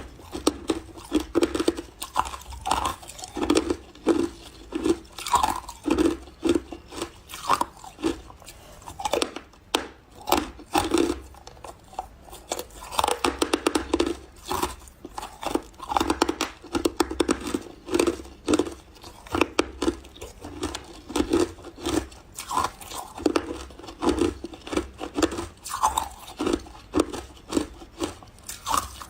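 Close-up chewing of refrozen powdery freezer ice: a steady series of soft crunches, several a second, as mouthfuls of ice are bitten and chewed.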